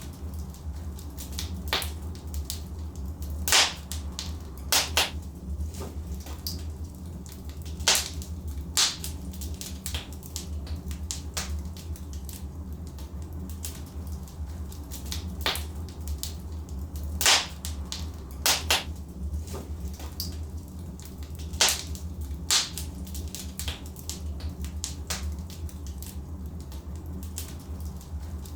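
Logs burning in a fireplace, crackling with irregular sharp pops, a handful of them much louder, over a steady low rumble of the fire.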